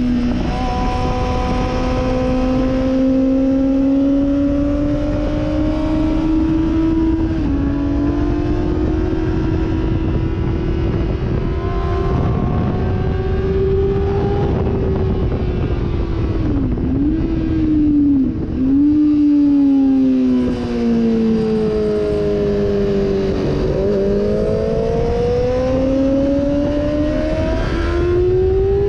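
Sportbike engine running hard around a racetrack, its pitch slowly rising and falling with the throttle. Past the middle it dips sharply twice, and near the end it falls and then climbs again. A heavy rush of wind noise runs under it.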